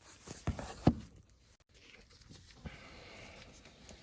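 A few small handling knocks and clicks, the sharpest about a second in, followed by faint rustling.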